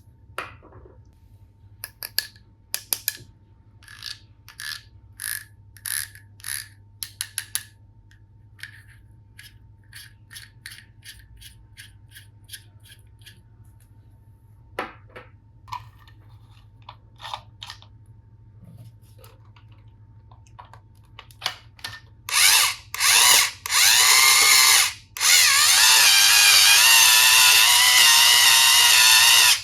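A run of sharp plastic clicks, about two a second, then scattered clicks. Later a toy electric screwdriver's small motor whirs in a few short bursts and then runs steadily for about five seconds before cutting off.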